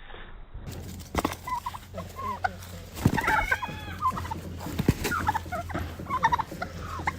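Poultry calling repeatedly: a run of short, warbling calls that grows louder and busier about three seconds in, with a few knocks among them.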